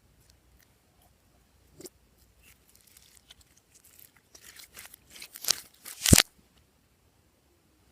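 Glossy slime being worked by hand, making sticky crackles and small pops. They are scattered at first, then come thick and loud from about four seconds in, ending in a sharp pop just after six seconds.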